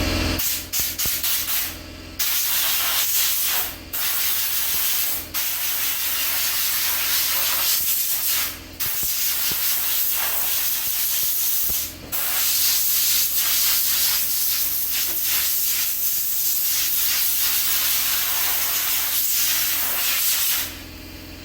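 Compressed air from an air-hose blowgun hissing as it is blown through a used radiator to clear out old fluid, in long blasts broken by short pauses about four times, stopping shortly before the end.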